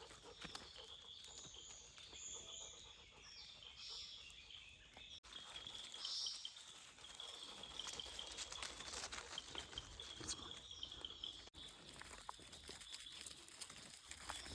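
Faint countryside ambience: birds chirping over a steady high-pitched hum. It cuts out briefly twice.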